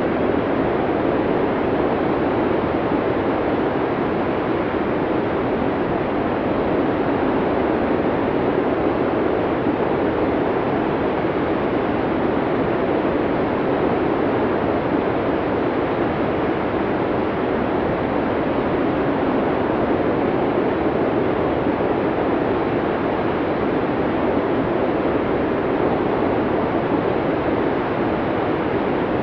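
Snowstorm wind blowing as a steady, even noise, with no gusts or breaks.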